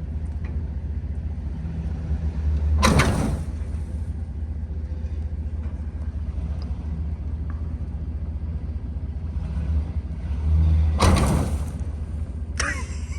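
Vehicle engine rumbling steadily at low speed, with two brief, louder rushes of noise about three and eleven seconds in.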